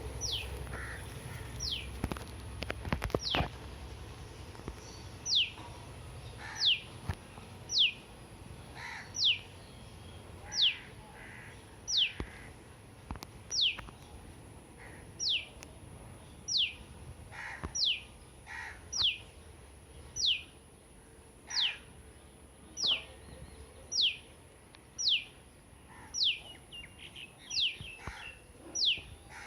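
A bird repeating one short, high whistle that falls steeply in pitch, about once every second and a quarter, over and over.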